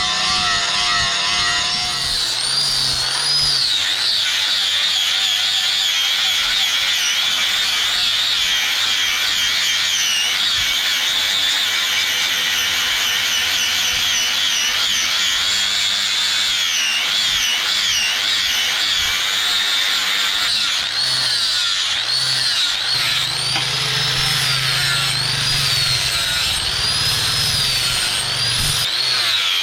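Power grinder grinding steel from a chainsaw bar: a steady high hiss with a whine that wavers in pitch as the load on the disc changes.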